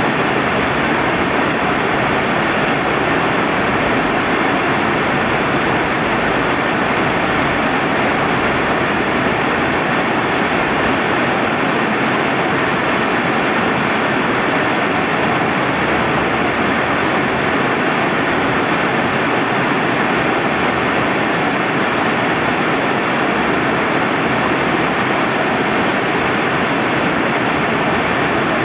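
Steady rain with rushing river water: an even, unbroken hiss with no separate drops or events standing out.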